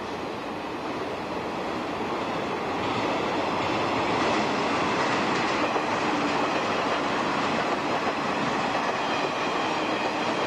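Electric trains running on the track: steady wheel-and-rail rumble that grows louder about three seconds in as a commuter train passes close by, then stays loud.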